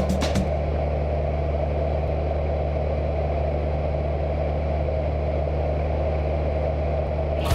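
Cessna 172's piston engine and propeller running with a steady low drone, unchanging in pitch. Background music fades out about half a second in and comes back at the very end.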